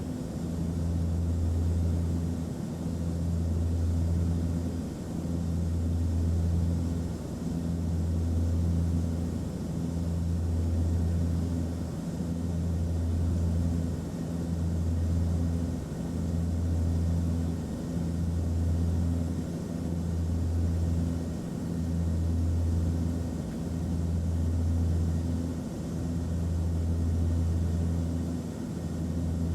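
Airplane cabin drone in flight: a steady low hum over a broad rushing hiss, swelling and dipping gently every two seconds or so.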